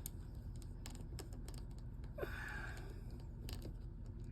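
Scattered light clicks and taps of a small screwdriver and screw against a smartphone's frame during reassembly, irregular and quiet, with a brief breath about two seconds in.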